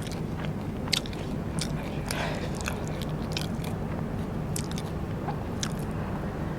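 Close-miked eating of Vietnamese rice paper snacks (bánh tráng): chewing with scattered sharp crunches, one louder bite about a second in, over a low steady hum.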